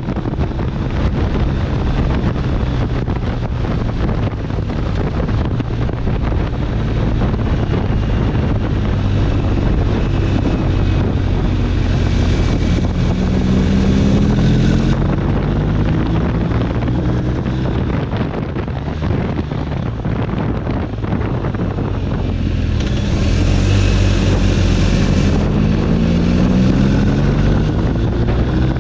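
BMW R1250 RT's boxer twin engine running on the move, its note rising twice as the bike accelerates, about a third of the way in and again near the end. Wind noise buffets the microphone throughout.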